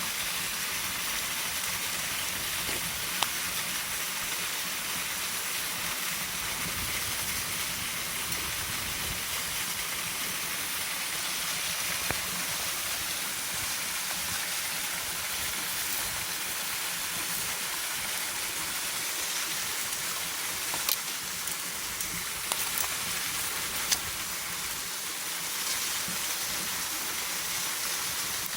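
Steady rush of a waterfall, with a handful of sharp pops and cracks from a campfire scattered through it.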